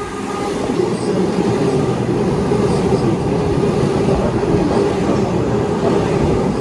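A train running through the station. Its rumble builds over the first second, then holds loud and steady with a constant hum underneath.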